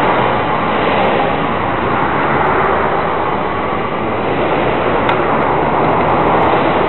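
Pit bike engine running steadily and loudly, with no pauses or clear changes in pitch.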